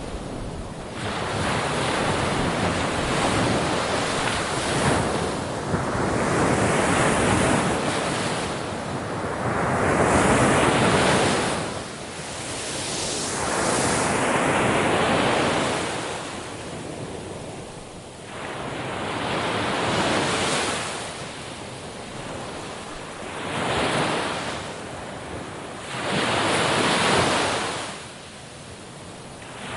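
Sea waves breaking and washing up the shore, a rushing surf that swells and fades again every three to six seconds.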